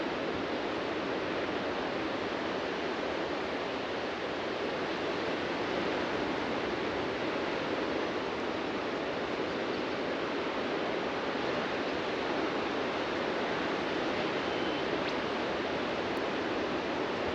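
Ocean surf washing onto a beach: a steady, even rush of waves with no separate crashes standing out.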